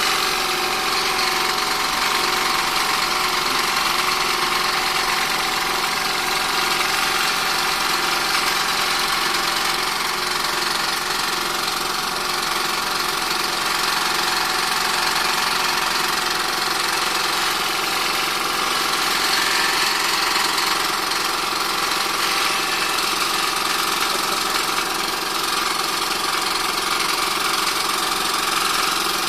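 Try-POWER 2 hp four-cylinder air compressor running steadily. It is losing compression, which the owner blames on a misaligned connecting rod that let the piston rub and score the cylinder.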